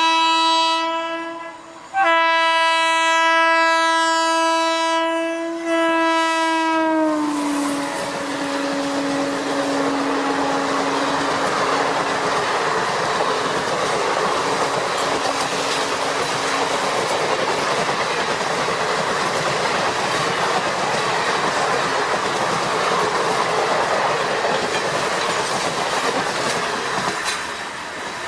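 Train horn of an Indian Railways locomotive: one blast ends about a second and a half in, and a second long blast follows and drops in pitch as it fades. It gives way to the steady rush and clickety-clack of the train running on the rails.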